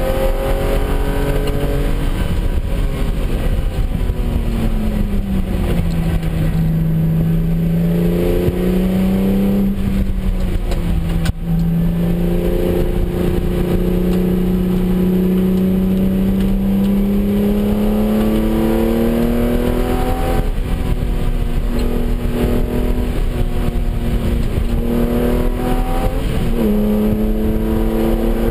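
Porsche 996's flat-six engine heard from inside the cabin at track speed. Its note drops about five seconds in as the car slows for a corner, then climbs steadily under throttle, with changes in pitch around twenty and twenty-seven seconds in.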